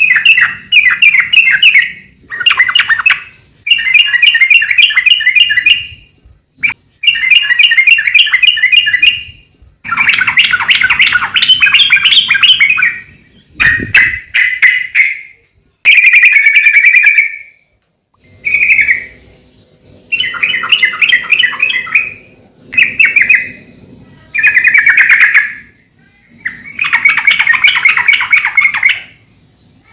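Sooty-headed bulbul (trucukan) singing loudly in repeated bursts of rapid, bubbling chattering notes. Each phrase lasts a second or two, with short pauses between phrases.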